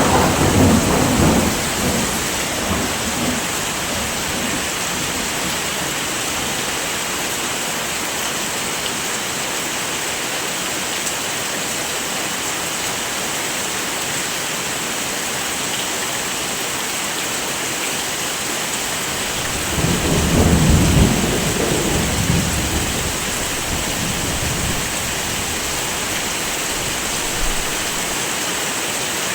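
Steady heavy rain, with two low rumbles of thunder: one right at the start and one about two-thirds of the way through, each swelling and dying away over two to three seconds.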